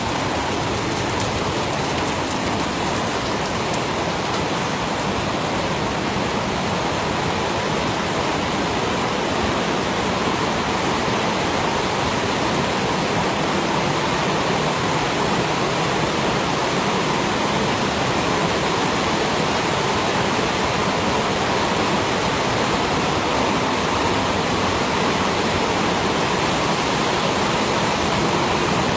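Waterfalls and fast-flowing river water in the Partnach gorge, a steady rush of falling water with no change in level.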